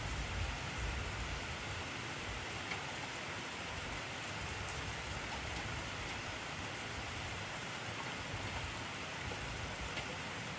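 Intense rainfall: a steady, even hiss of rain with a few distinct drop ticks, and a low rumble under it during the first couple of seconds.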